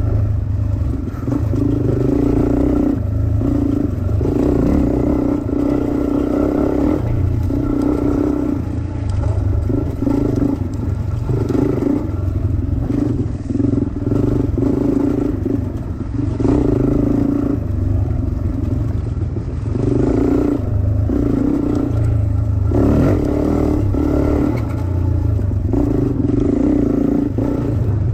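Dirt bike engine on a trail ride, the revs rising and dropping every second or two as the throttle is opened and shut over rough ground, over a steady low rumble.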